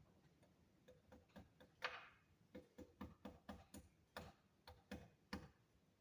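Hand tools working a copper-wire jump ring, making a run of about a dozen light, irregular metallic clicks and taps, some with a faint short ring.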